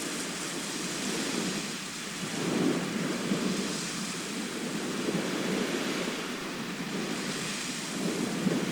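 Sea surf washing in continuously, swelling roughly every three seconds as waves break.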